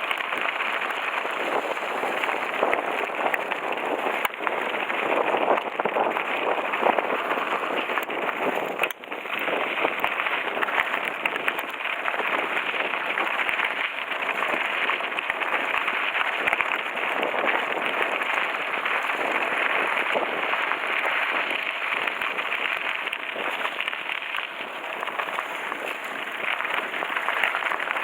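Mountain-bike tyres rolling over a loose gravel forest road on a coasting descent, with a steady dense crunching and a constant patter of small clicks and crackles from stones and the bike. The sound drops out briefly about a third of the way in.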